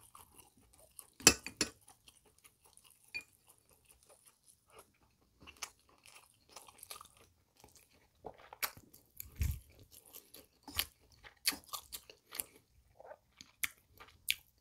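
Close-miked chewing of pork kimchi stew and rice, with many short wet mouth clicks and smacks that come thicker in the second half. A single sharp click sounds about a second in.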